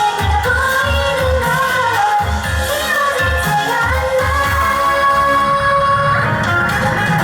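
Pop song performed live: a singing voice over a backing track with a steady bass beat.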